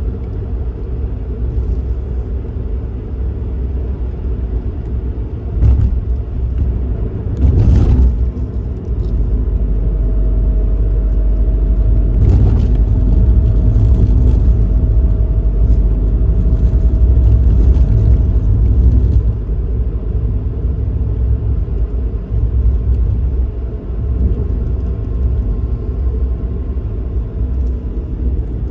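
Suzuki Kei Works on the move: a steady low rumble of engine and road noise. There are a couple of short knocks about six and eight seconds in, and a faint steady whine partway through.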